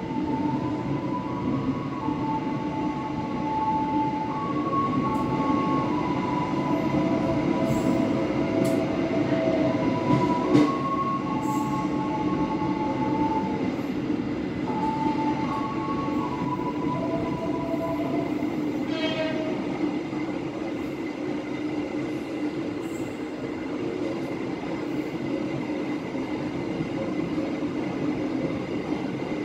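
Passenger train rolling slowly with a steady low rumble, heard from the rear of the last coach. A slow tune of plain, sustained tones plays over it until about two-thirds of the way through, with one sharp click about ten seconds in.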